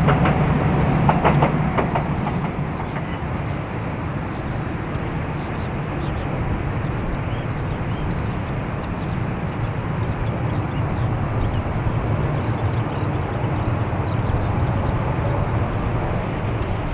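Boeing 787-8 Dreamliner's jet engines running at low power on the apron: a steady hum and rush, louder for the first two seconds and then settling lower and even.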